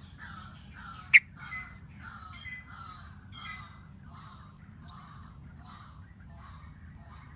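Bulbul giving short, harsh, falling calls over and over, about two a second. A single sharp click about a second in is the loudest sound.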